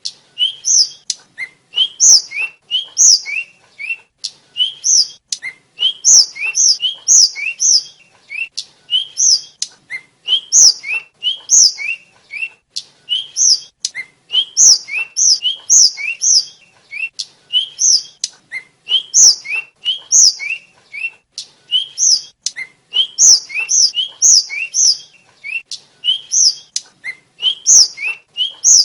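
Tledekan (hill blue flycatcher) singing a fast, continuous run of short high whistled notes. Each phrase starts on a lower note and jumps to sharp higher notes, with phrases coming about once a second.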